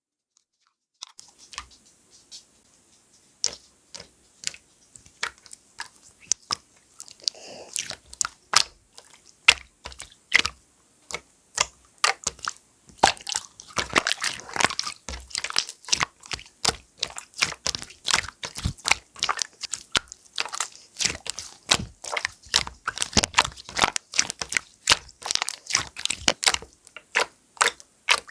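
Clear slime being squeezed and poked by hand, making a run of sticky clicks and pops. The clicks are sparse at first and come thick and fast from about eight seconds in.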